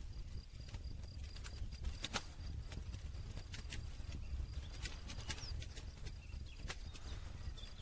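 Wood campfire crackling, with irregular sharp pops scattered over a steady low rumble; the loudest pop comes about two seconds in.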